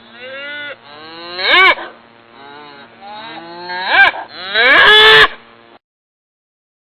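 Cow mooing: a run of about four moos, each rising in pitch and then falling away. The sound cuts off abruptly about six seconds in.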